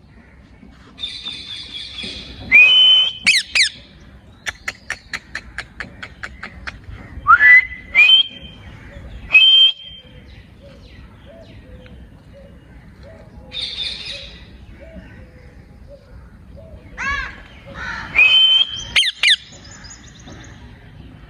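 Ring-necked parakeet calling: a string of sharp, rising whistled calls and loud screeches, with a quick run of clicks, about five a second, a few seconds in.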